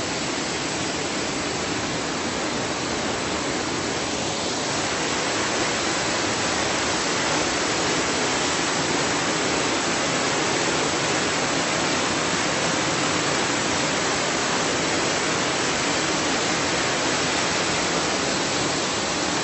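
Waterfall pouring into its pool close by: a steady, loud rush of falling water.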